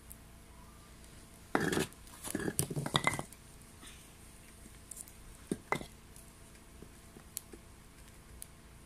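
A burst of clattering knocks of hard objects, wood and metal, at a small homemade wood-gas stove, about two seconds in and lasting about a second and a half. Two sharp clicks follow a few seconds later, with a few faint ticks after that.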